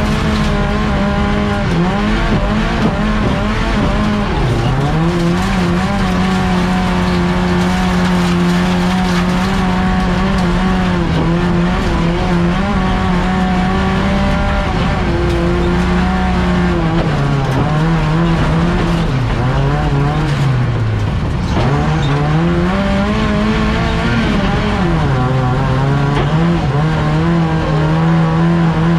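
Classic Saab 900's four-cylinder engine at racing revs, heard from inside the stripped cabin: held high and steady, then falling away to about half its pitch several times, most deeply about two-thirds of the way in, as the driver lifts off for corners, and climbing back up each time.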